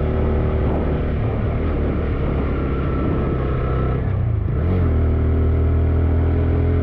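A TVS Raider 125's single-cylinder engine running on the move, easing off briefly about four seconds in, then rising and holding a steady pull.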